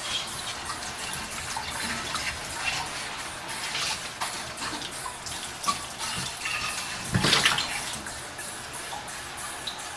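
Dishes being washed by hand under a running tap: a steady rush of water with scattered small knocks and clinks of dishes, and a louder clatter about seven seconds in.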